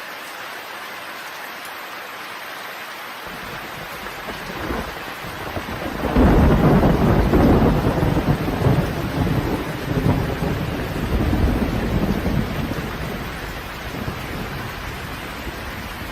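Steady rain with a long roll of thunder that builds a few seconds in, is loudest around the middle, and rumbles away toward the end.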